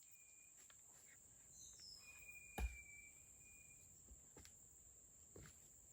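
Faint rainforest ambience: a steady high-pitched insect drone, with a thin whistled note held for about a second and a half in the middle. A few soft knocks and one dull thump are heard about two and a half seconds in.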